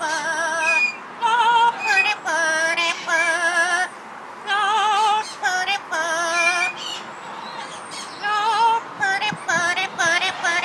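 A pet bird singing: short phrases of warbled, whistle-like notes with a fast wavering vibrato, repeated with brief pauses between them.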